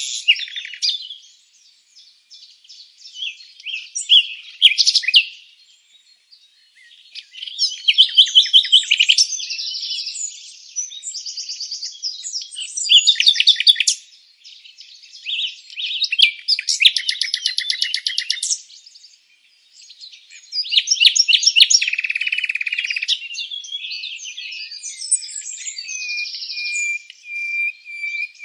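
Several songbirds singing and chirping in overlapping phrases: rapid trills, quick rising and falling chirps and short buzzy runs, with brief lulls between bursts.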